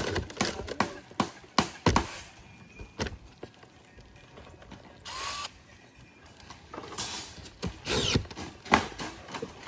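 Sharp knocks and clicks from handling and fastening metal roof shingles, with a short power-drill run about five seconds in.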